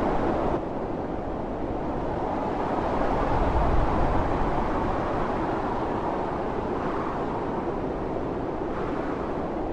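Storm wind howling steadily in a blizzard, its hiss falling away suddenly about half a second in, then swelling into a stronger gust with a low rumble a few seconds later.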